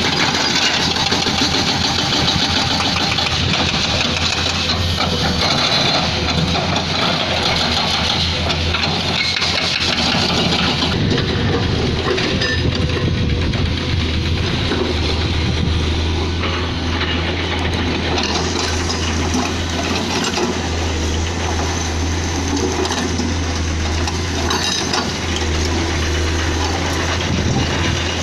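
Excavator diesel engine running, with the rapid hammering of a hydraulic breaker on rock that eases off about eleven seconds in, leaving mostly the engine.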